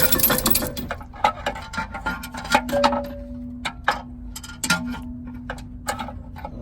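Irregular sharp metallic clicks and taps, several a second, from hands and tools working on an engine as it is being pulled, over a steady low hum.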